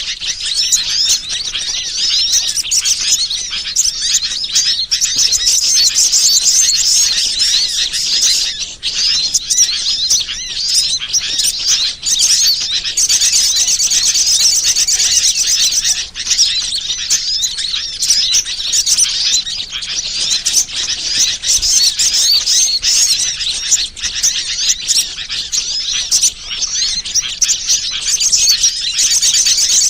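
Dense, continuous chorus of many small birds chirping and twittering at a high pitch, with rapid trills in the middle: a bird-lure (pikat) recording made to draw wild birds in.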